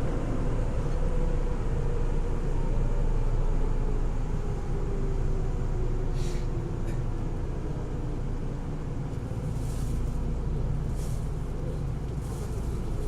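Cabin noise of a Nagoya Municipal Subway 3000-series train car running, a steady low rumble with a whine that falls in pitch as the train slows. Short hissing bursts come about halfway through and again near the end.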